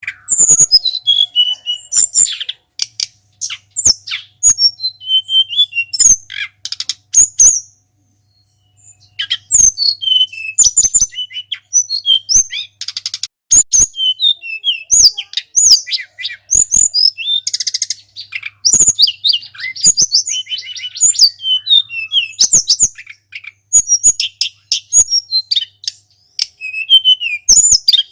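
A sulingan gunung bird singing a fast, busy song of high chirps and whistled notes. It breaks off briefly partway through, then resumes with a few rapid trills among the phrases.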